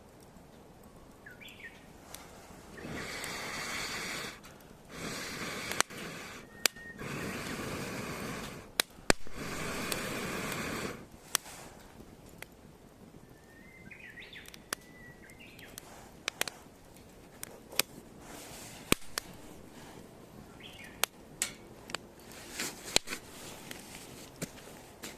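Firewood burning in a small fire pit, crackling with irregular sharp pops and snaps. Between about 3 and 11 seconds in, it is broken by three or four one-to-two-second bursts of rushing noise. Small birds chirp now and then.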